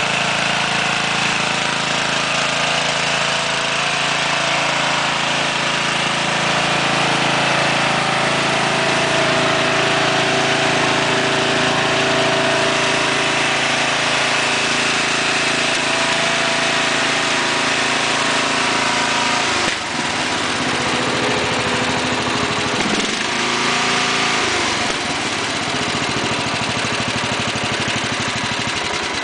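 Murray 17 HP riding lawn tractor's engine running steadily; about twenty seconds in its note changes and becomes less even.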